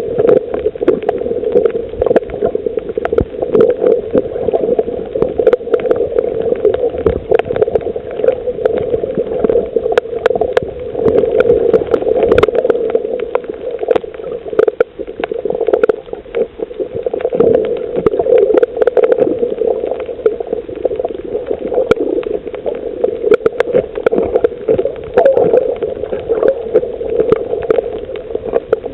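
Underwater ambience on a coral reef: a steady muffled water rush with many scattered sharp clicks and crackles throughout.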